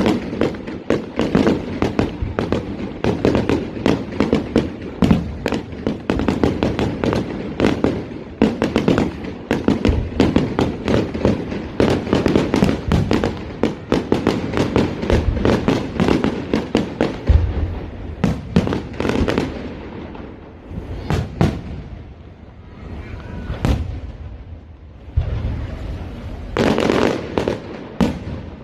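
Fireworks going off in a rapid, dense barrage of bangs and crackles, thinning out to scattered single bangs about two-thirds of the way through, then a short burst of crackling near the end.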